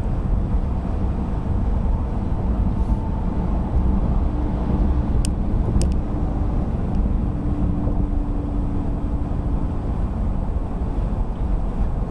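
Steady road and engine rumble of a car driving in traffic, with a faint steady hum over it and two sharp clicks a little past the middle.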